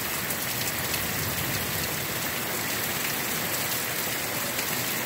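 Heavy, steady downpour of rain hissing on hard surfaces, with fine spattering drops.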